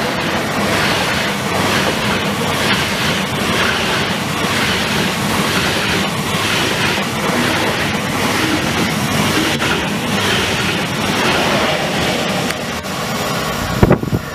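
Train running on rails: a steady rushing noise with a faint regular clatter of the wheels. A few sharp thumps come near the end.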